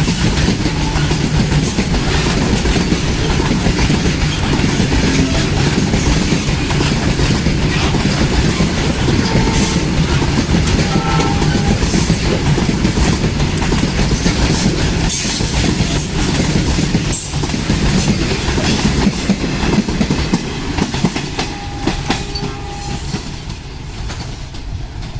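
Stone-laden freight wagons rolling past close by, their wheels clattering over the rail joints in a rapid steady rhythm; the noise eases slightly near the end.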